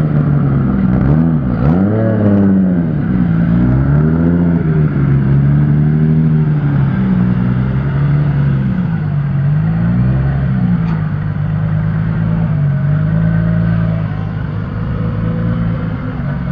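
A car engine revving up and down several times, its pitch rising and falling over a few seconds each time, then running more steadily near the end.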